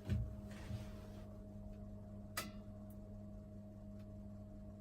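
Quiet room tone with a steady low electrical hum. There is a soft thump at the start and a sharp click about halfway through.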